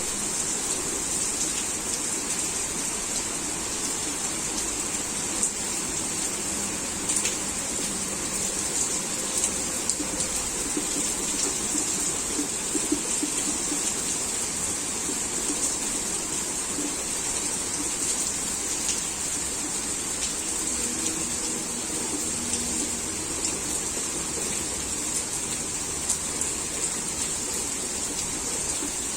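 Heavy rain falling steadily, a constant hiss with scattered louder drop hits.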